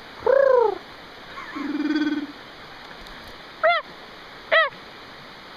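A series of short pitched vocal calls, each rising then falling in pitch: a loud one at the start, a lower, buzzier one about two seconds in, and two shorter, higher ones near the end.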